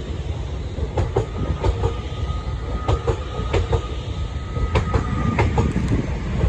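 LNER Azuma (Class 801) train running past: a steady rumble with repeated clacks of the wheels over rail joints, and a thin steady whine for a few seconds in the middle.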